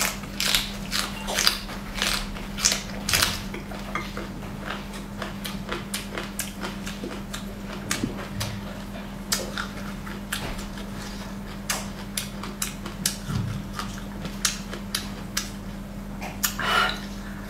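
Close-up eating sounds: crisp bites and wet chewing of raw green chili peppers and noodles, with many short clicks and smacks, busiest in the first few seconds and sparser afterwards, over a steady low hum.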